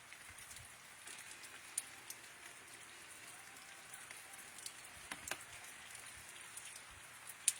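Steady rain falling, with scattered single drops ticking sharply on nearby surfaces; a few of the drips land louder than the rest.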